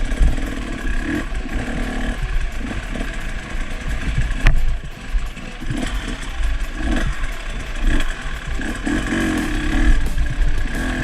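Off-road dirt bike engine revving in short, uneven bursts over a constant low rumble, with a sharp click about halfway through.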